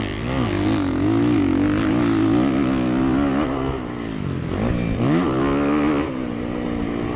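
450cc four-stroke motocross bike engine being ridden on a track, its pitch rising and falling with the throttle, with a sharp dip about four and a half seconds in and another near the end.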